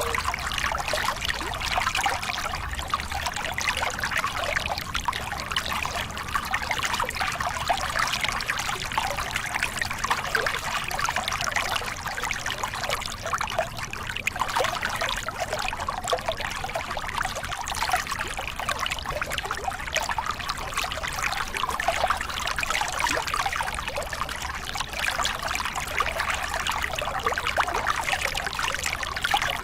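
Small river cascade, water pouring and splashing over rocks in a steady, continuous rush.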